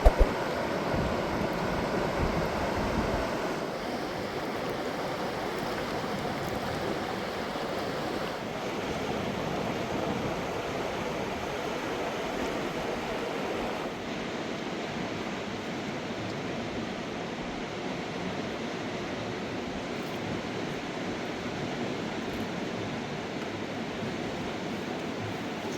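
Steady rushing of a mountain river: an even wash of water noise with no rhythm, its top hiss thinning about halfway through.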